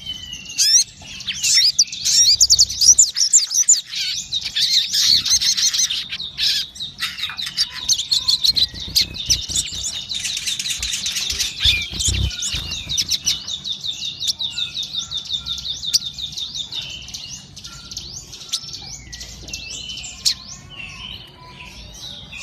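Sogon songbird singing in full voice: a long, fast run of high chirps and trills, densest and loudest in the first half, then thinning out toward the end.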